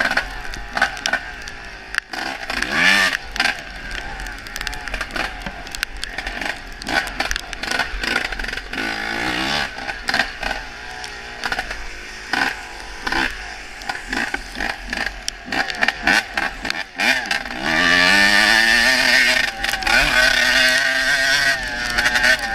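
Honda CR250 dirt bike's freshly rebuilt two-stroke engine revving up and down while riding, its pitch repeatedly rising and falling, with a louder sustained run near the end. Sharp knocks and crackles break in throughout.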